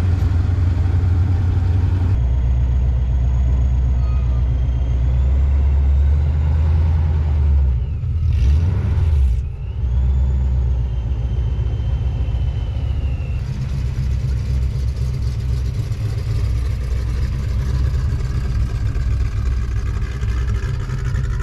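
Car engines running, a deep pulsing rumble, with a brief louder rush a little over a third of the way in; the sound changes abruptly a couple of times.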